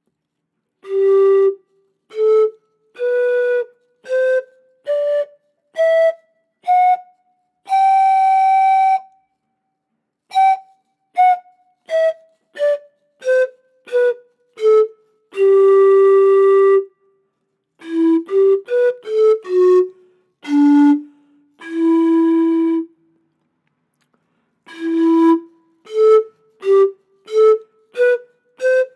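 Solo malta zampoña, the mid-sized Andean panpipe, playing separate breathy notes with short breaks between them. It climbs a step-by-step scale to a long held high note, walks back down, then plays quick low phrases and held low notes before a short pause and a new phrase.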